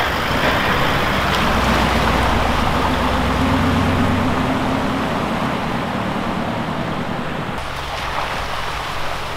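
A four-wheel-drive vehicle driving at speed: a steady low engine drone under a constant rush of tyre and road noise. The sound changes abruptly about seven and a half seconds in.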